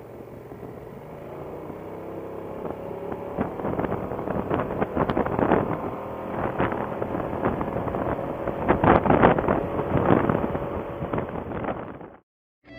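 Motorcycle engine running on the road, with wind buffeting the microphone, getting louder as the bike picks up speed; it cuts off suddenly near the end.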